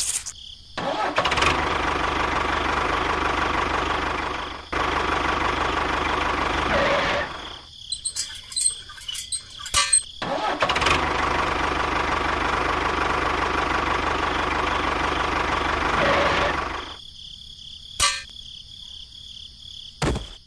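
A small motor runs steadily for about six seconds, stops, then runs again for about six seconds. Clicks and rattles fill the gap between the two runs.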